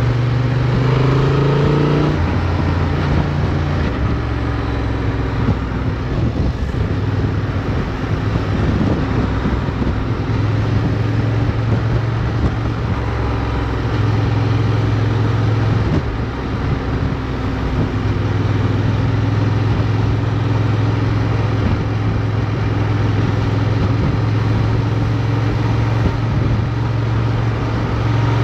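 Motorcycle engine running under way, its note rising over the first two seconds, then dropping and shifting up and down several times as the revs change, over steady wind and road noise.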